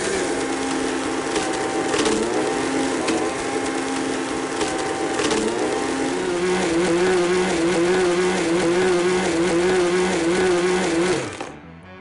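Countertop blender motor running at full speed while grinding up an iPad 2, with the pitch dipping now and then as chunks of the tablet load the blades. There are sharp cracking knocks as the tablet breaks apart. The motor winds down and stops near the end.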